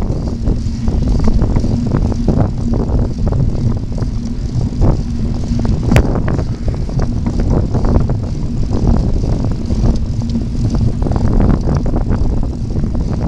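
Wind rumbling over the microphone of a moving bicycle, with tyre noise and short rattling knocks from semi-slick tyres rolling on the path. A faint steady hum runs underneath.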